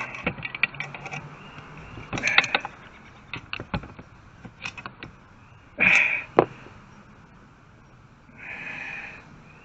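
Hand work on a small power saw's metal parts and screws: a series of sharp clicks and knocks with a few short scraping rasps, the loudest about six seconds in.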